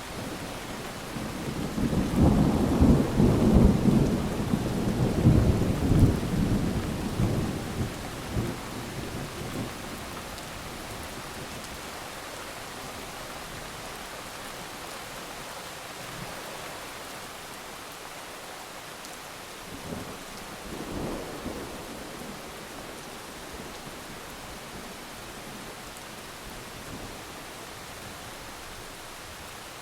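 Steady heavy rain with a long roll of thunder that builds, rumbles loudly for several seconds and fades, then a shorter, fainter rumble of thunder later on.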